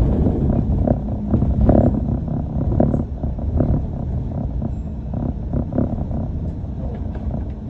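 Inside a moving London bus: a steady, low engine and road rumble with uneven rattling several times a second.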